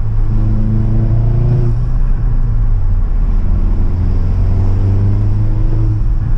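Mk7 Golf R's turbocharged four-cylinder engine with a Milltek cat-back exhaust, pulling under acceleration: a deep exhaust drone with the engine pitch rising twice, first briefly near the start, then more slowly over the next few seconds.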